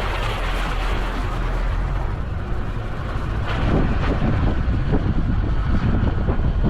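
A vehicle driving: a steady engine and road rumble that grows louder and rougher, with uneven jolts, from about halfway through.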